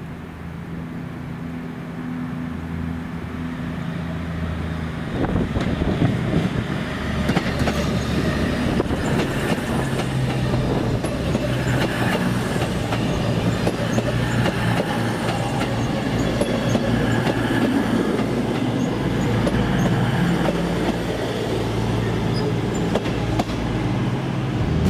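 A train running on the rails, getting louder: a low steady hum at first, then from about five seconds in the rumble and clatter of wheels over the track, with a few faint high squeaks.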